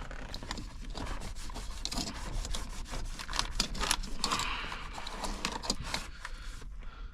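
Paper towel rubbing back and forth over a surface inside the dash as it is wiped clean: a run of quick, scratchy wiping strokes.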